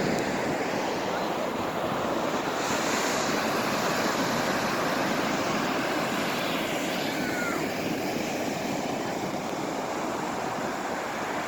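Ocean surf breaking on a beach: a steady, fairly loud rush of waves.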